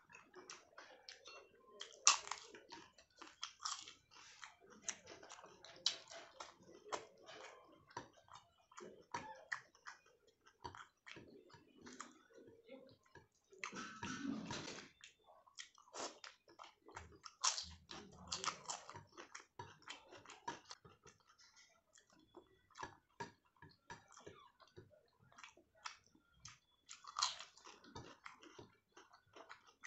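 Close-miked chewing and biting of food: irregular wet mouth clicks and smacks, with a denser, noisier stretch about halfway through.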